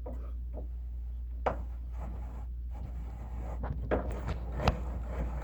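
Handling sounds at a benchtop wood planer while its depth is set: a few sharp clicks and light knocks with faint rubbing, over a steady low hum.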